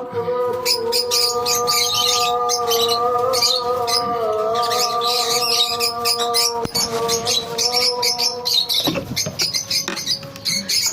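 A colony of lovebirds chirping and squawking continuously in rapid, high-pitched overlapping calls, over a steady held droning tone underneath.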